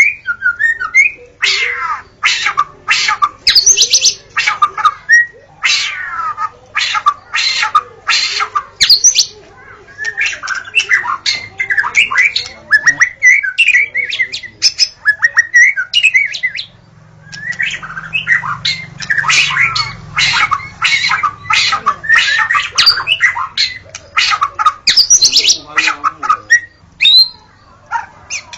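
White-rumped shama (murai batu) singing: rapid runs of sharp, clipped notes and sweeping whistles mixed with harsh chattering calls, with a brief lull about halfway through.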